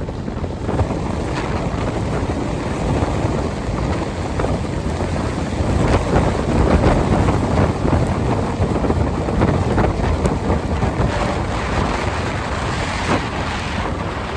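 Strong gusty wind buffeting the microphone: a loud, rushing low rumble broken by irregular gusts.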